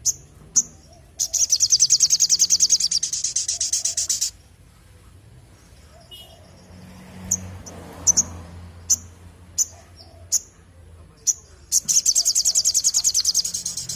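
Sogon (little spiderhunter) calling: a sharp chip, then a long, fast rattling trill, a string of single chips about once a second, and a second long trill near the end.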